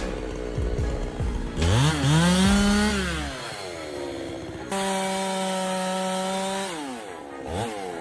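Two-stroke chainsaw revving up and down. Its engine rises in pitch a couple of seconds in, drops back, then jumps to a steady high pitch at full throttle for about two seconds before falling off, with short blips near the end.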